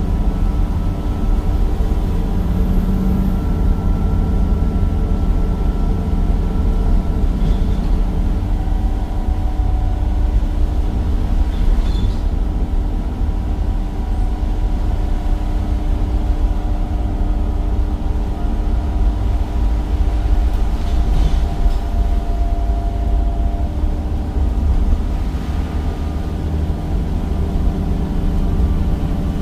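Replacement Cummins diesel engine and ZF automatic gearbox of a Temsa Avenue bus, heard from inside the bus, running steadily with a deep drone and a few steady tones over it.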